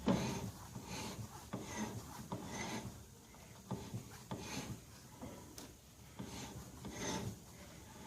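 Irregular knocks, clicks and scraping of hands working a speedometer cable and its fittings into the rear-wheel drive, with a sharp knock right at the start.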